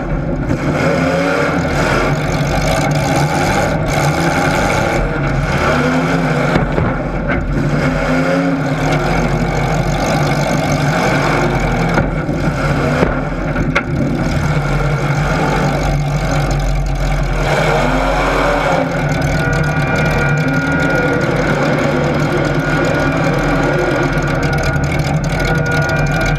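Racing engines running continuously, their pitch rising and falling again and again as they rev.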